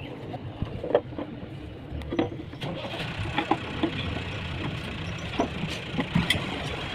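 Mazda T3500 truck's diesel engine running steadily just after starting, freshly overhauled, with scattered sharp clicks over the rumble.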